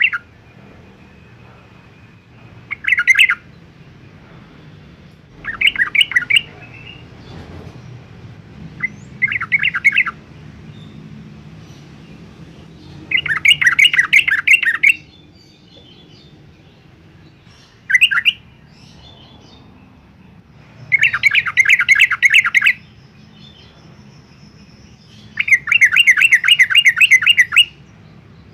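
Yellow-vented bulbul singing: seven loud bursts of fast repeated chattering notes, a few seconds apart, the short ones under a second and the longer ones about two seconds.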